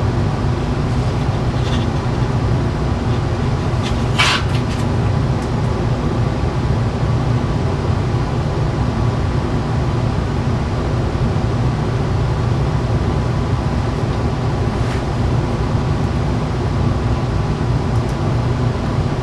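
A steady low drone, like machinery or a fan running, with a single brief sharp click about four seconds in.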